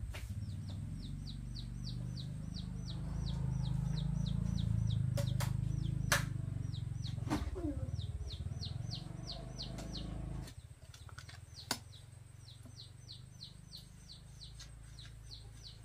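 A small bird calling over and over, a rapid string of short high chirps that drop in pitch, several a second. Under it runs a low rumble that stops abruptly about ten seconds in, with a few sharp knocks.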